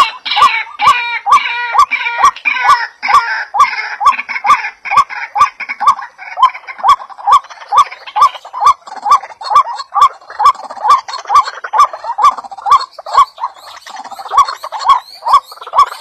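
A bird calling one short, hooked note over and over in a steady rhythm, about three a second. Higher chirping calls join in over the first few seconds.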